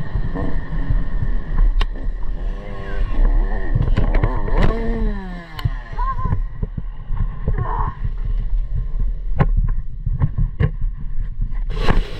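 Dirt bike engine on a motocross track, revving up and then falling away in pitch, over heavy wind rumble on the microphone, with sharp knocks and a loud burst of noise near the end.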